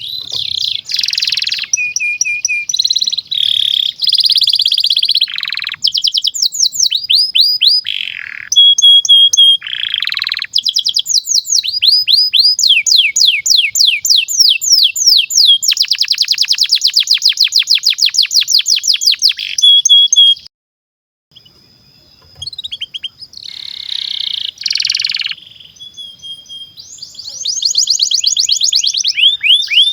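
Domestic canary singing a long, fast song: high-pitched rapid trills and runs of quickly repeated down-slurred notes. The song breaks off briefly about two-thirds through, then resumes.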